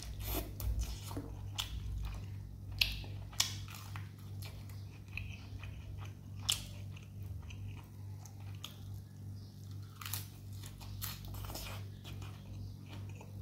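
Close-up eating sounds: chewing with irregular crunchy bites, as chicken legs, rice and a king chilli are eaten by hand.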